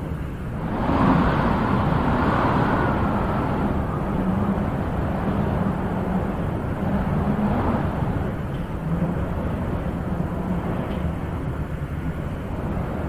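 Wind blowing in slow gusts, a stronger gust swelling about a second in and easing off after a few seconds.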